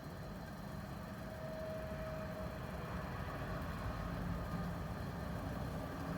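A vehicle's engine running with a steady low rumble, growing slightly louder toward the end.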